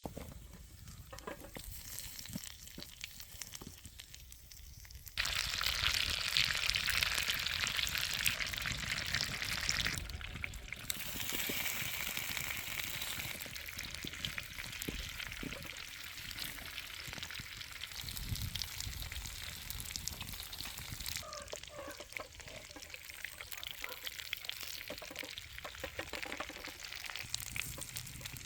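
Food sizzling in a hot frying pan for an English breakfast. The sizzle jumps suddenly louder about five seconds in and eases back about ten seconds in, with small clicks scattered through it.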